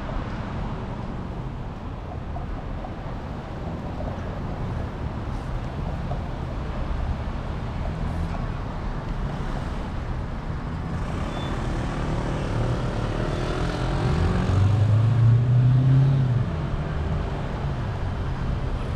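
Street traffic heard from a bicycle: a steady rumble of passing cars, with one vehicle's engine growing louder and passing close about three-quarters of the way through before falling away.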